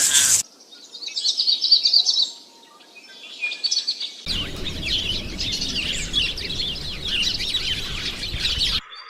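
Small birds chirping in quick, high notes. About four seconds in, a denser chorus of many birds chirping at once takes over, then cuts off abruptly near the end.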